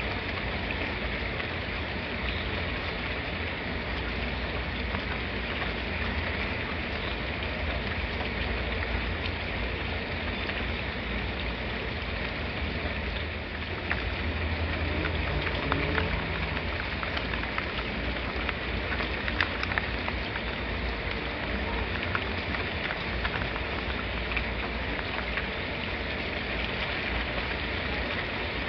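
Steady rainfall, a continuous hiss with scattered individual drops ticking on a surface. A low rumble swells briefly about halfway through.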